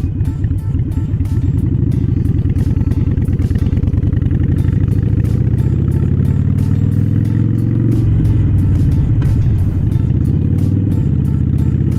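Harley-Davidson Iron 883's air-cooled V-twin engine pulling the bike along, its pitch climbing as it accelerates, dropping sharply about eight seconds in at a gear change, then climbing again.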